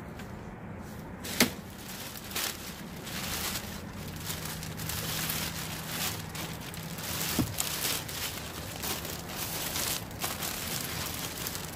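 Bags and their contents being rummaged through: irregular rustling and crinkling of plastic, with a sharp knock about a second and a half in.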